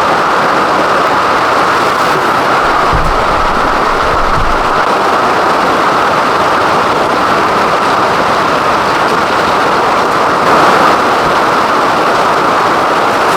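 Heavy rain pouring down in a steady, loud hiss, with a brief low rumble about three seconds in.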